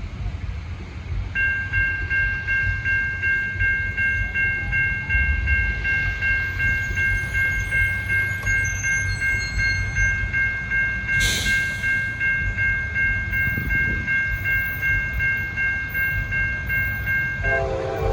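Norfolk Southern freight locomotive's air horn held in one long chord of three notes for about sixteen seconds, over the steady, pulsing rumble of the locomotive and train. A short hiss comes about eleven seconds in.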